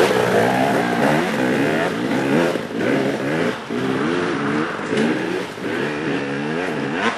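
Off-road motorcycle engine revved again and again in short bursts, each rising and falling in pitch, loud and close.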